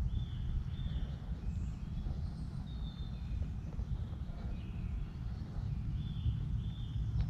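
Birds singing in woodland: short high whistled phrases, several in quick pairs, over a steady low rumble.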